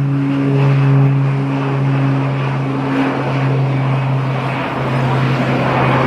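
Aircraft engines running: a steady low hum with a rushing noise that grows toward the end.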